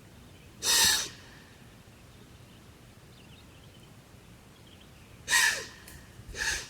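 A deer's alarm call: sharp, forceful snorts blown through the nose when startled, two loud ones about four and a half seconds apart and a fainter one near the end.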